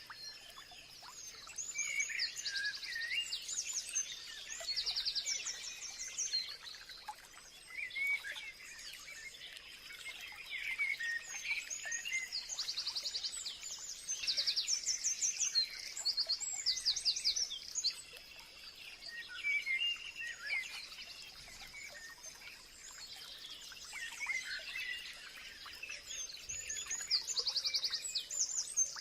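Several songbirds singing and chirping, with fast trilled phrases that come in clusters every few seconds. A faint steady high tone runs underneath.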